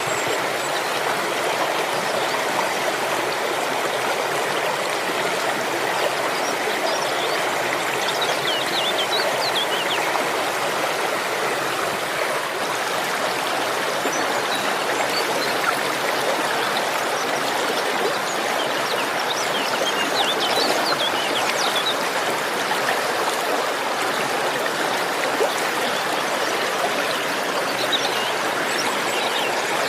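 Water steadily splashing and trickling. A few faint, high bird chirps come in short clusters about eight seconds in, around twenty seconds, and near the end.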